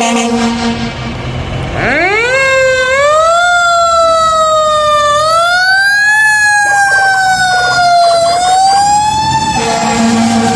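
Fire apparatus air horn blasting in the first second. About two seconds in, a siren winds up steeply from a low pitch, then wails slowly up and down. The air horn sounds again near the end.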